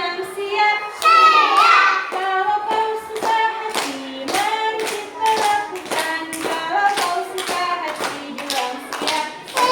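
A song sung in high voices, with hand claps keeping a regular beat about twice a second.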